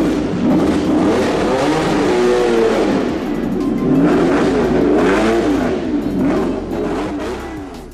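Lamborghini Miura's 3.9-litre V12 engine revving up and down repeatedly, over background music, fading away near the end.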